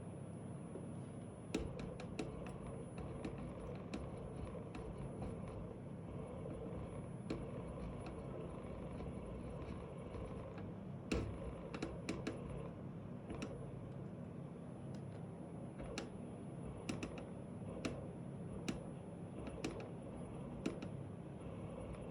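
A car's actuator making its weird noise: irregular sharp clicks, sometimes several in quick succession, over a steady low hum.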